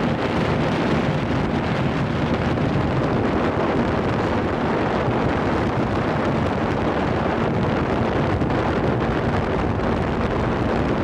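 Paramotor's two-stroke engine running steadily in flight, with wind rushing over the microphone.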